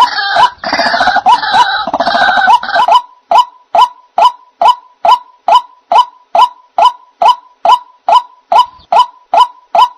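White-breasted waterhen (ruak-ruak) calls played as a bird-trapping lure. For about the first three seconds there is a dense, overlapping chorus of croaking calls. It then gives way to a single short note repeated evenly, about two and a half times a second.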